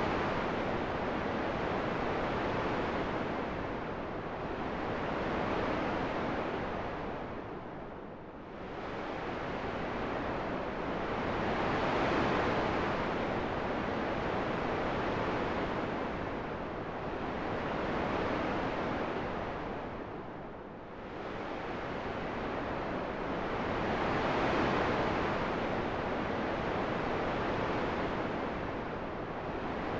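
Wind blowing as a steady rushing noise that swells and eases every few seconds, dropping into a deeper lull twice.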